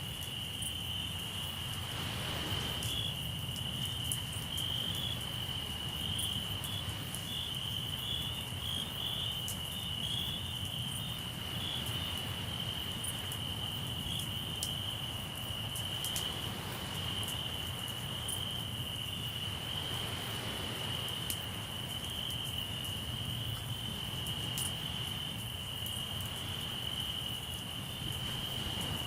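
Crickets chirping in a continuous, high, slightly pulsing chorus. A campfire crackles with small sharp pops throughout, over a low steady rumble of the sea.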